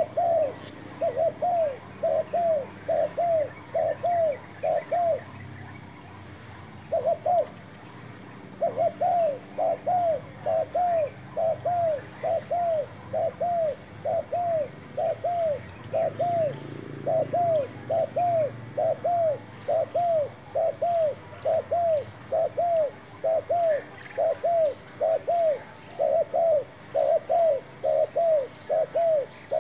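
Spotted dove cooing: a long run of short, arched coos, about two or three a second, broken by a pause of a few seconds near the start.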